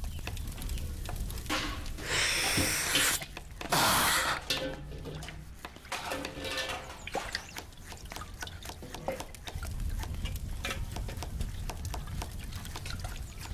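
Water splashing and sloshing in a large vessel, with scattered knocks and clinks. There are two heavier bursts of splashing, about two and four seconds in.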